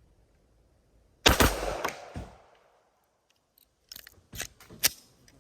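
A 9mm pistol shot about a second in, with a close second report and a reverberating tail. Near the end come several sharp metallic clicks and clacks as the misfeeding pistol's slide is handled.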